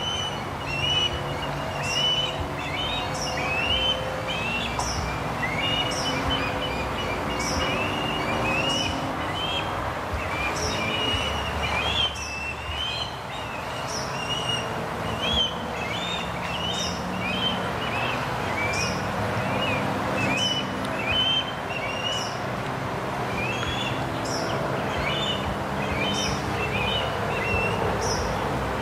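Osprey chicks calling from the nest: an unbroken string of short, high, whistled chirps, several a second, over a low steady hum.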